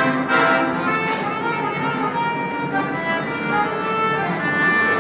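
Music led by a violin, playing held notes.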